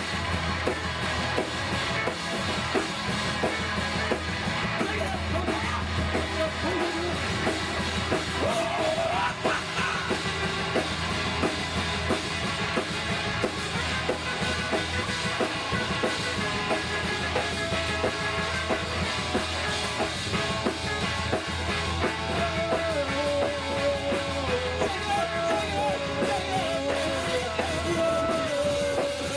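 Rock music with a drum kit, in a punk style, playing steadily.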